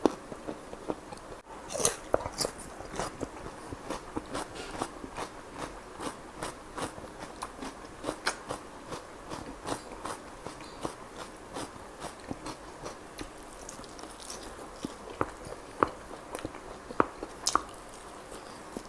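Close-up sounds of a person biting and chewing chicken kalmi kabab: a steady run of short, sharp mouth clicks, a few each second.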